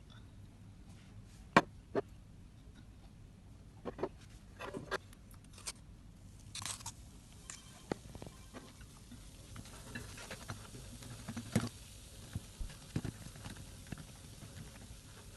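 Hand handling of kitchen items for a lemon volcano experiment: scattered taps, clicks and scrapes, with two sharp knocks about one and a half and two seconds in and another near the middle.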